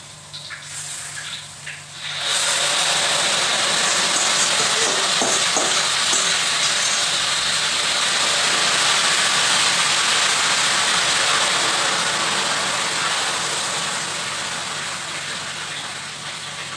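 Soy-and-chilli marinated beef tipped into a hot wok of oil, frying with a loud sizzle that starts suddenly about two seconds in and slowly dies down.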